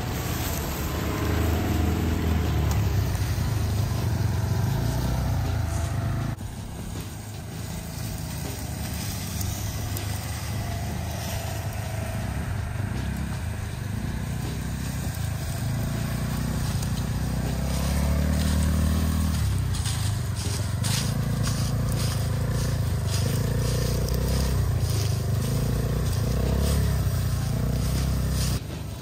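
Small off-road vehicle engines, an ATV and a side-by-side, running along a wooded trail, the engine note rising and falling in steps with the throttle. The sound changes abruptly about six seconds in and again near the end, and a run of clicks and crackles comes in the second half.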